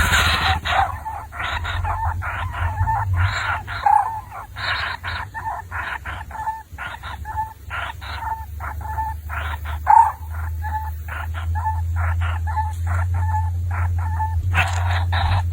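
A bird calling over and over in short calls, about two to three a second, over a steady low hum.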